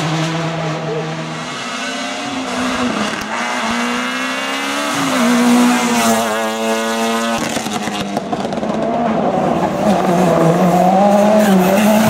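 Rally car engine running hard at high revs. Its pitch climbs and drops as it goes through the gears, with a sharp shift about seven seconds in.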